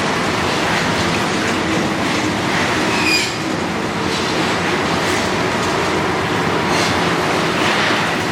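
Demolition excavator running steadily under load while it breaks up the building, with scraping and clattering of broken concrete and metal debris. A short high metallic squeal rings out about three seconds in.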